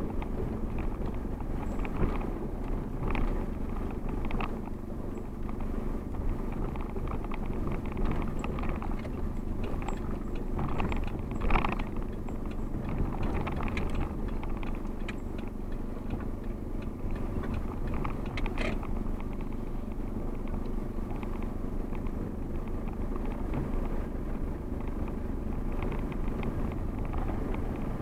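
Steady low rumble of a vehicle running, with a few short clicks and knocks scattered through it.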